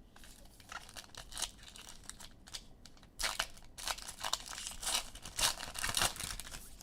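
Trading-card pack wrapper being torn open and crinkled by hand, an irregular crackle that gets louder and busier about halfway through.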